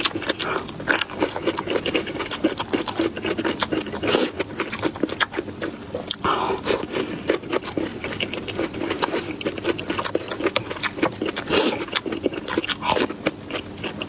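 Close-miked chewing and mouth sounds of eating: a dense run of wet clicks and crunches, with a few louder crisp crunches scattered through.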